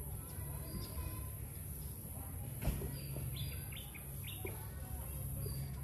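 Birds chirping in short, high calls scattered through, busiest around the middle. A single sharp knock comes about two and a half seconds in, over a steady low rumble.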